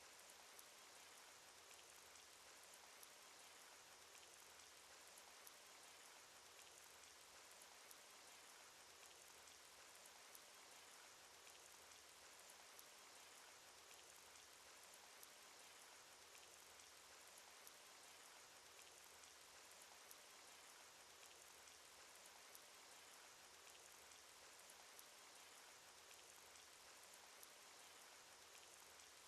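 Faint, steady rain sound effect: an even hiss of rainfall with scattered light droplet ticks.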